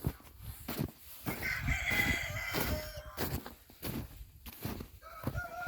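A rooster crowing, over repeated short knocks and crunches. Near the end a long, steady animal call begins, holding one pitch and dropping slightly.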